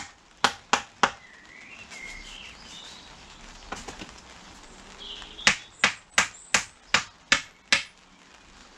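Tack hammer tapping tacks into a wooden panel frame: three quick taps, then after a pause a run of seven at about three a second. Small birds chirp faintly in between.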